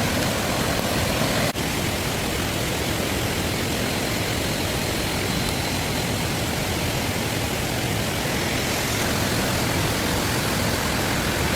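Steady, even rushing noise with no tone in it, broken once by a sudden brief dropout about a second and a half in.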